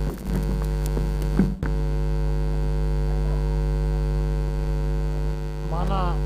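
Steady electrical mains hum in the recording, with a few sharp clicks in the first second and a half and a short wavering pitched sound near the end.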